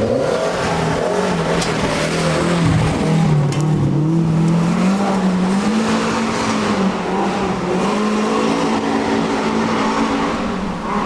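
Rally car driven hard on a stage: the engine note climbs, drops sharply about three seconds in as it shifts or lifts, climbs again, and falls away near the end, over a steady rush of tyre and road noise.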